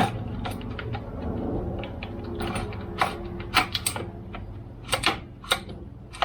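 Irregular sharp clicks and clacks of chainsaw parts and hand tools being handled during reassembly, getting louder and more frequent about halfway through, over a steady low hum.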